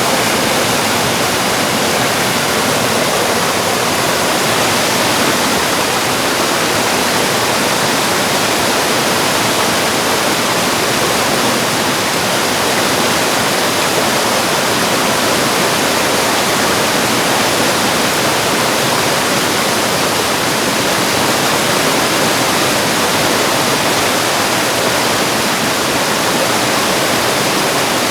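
Mountain valley stream rushing, a steady, unbroken hiss of flowing water.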